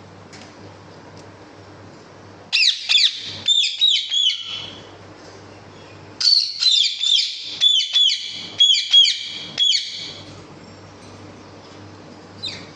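A bird calling in two runs of rapid, repeated downward-sweeping notes, the first about two and a half seconds in and the second from about six to ten seconds, with a single call near the end. A faint steady low hum lies underneath.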